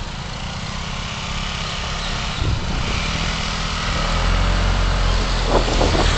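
Car engine and road noise heard by a dashcam while driving, with a low, steady engine hum that grows louder from about four seconds in.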